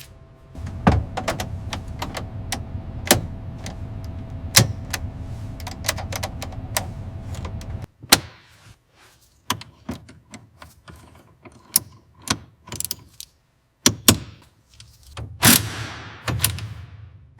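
Mechanical clatter in a workshop. For about the first eight seconds a low steady hum runs under rapid sharp clicks. The hum cuts off suddenly, and then separate sharp clicks and knocks follow with short quiet gaps between them.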